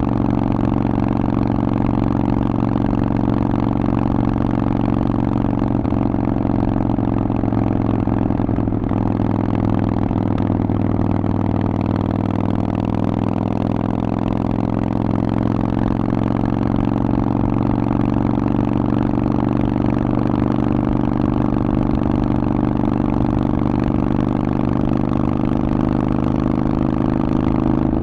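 Harley-Davidson Forty-Eight's 1200 cc Evolution V-twin running through a Vance & Hines aftermarket exhaust at fairly steady revs. The note eases slightly in the middle and picks back up.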